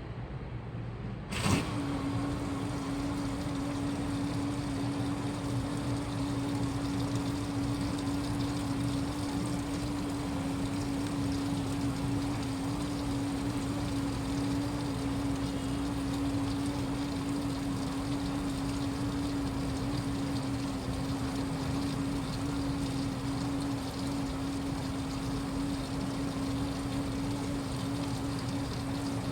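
A sharp click about a second and a half in, then a washing machine running steadily: a constant mid-pitched motor hum over an even rushing noise.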